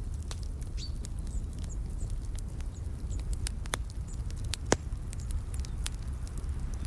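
Wood fire crackling with irregular sharp pops over a low steady rumble, one louder pop a little past the middle. Faint short bird chirps sound high above it.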